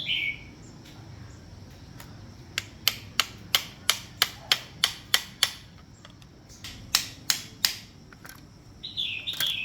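A run of about nine sharp taps or knocks, roughly three a second, then three more after a short pause. A short downward-sweeping chirp comes at the start and again near the end.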